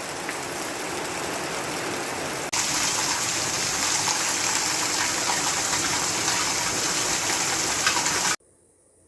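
Steady rain falling hard, the first rain of a hurricane's outer band. About two and a half seconds in it jumps suddenly louder and more hissing, and near the end it cuts off abruptly.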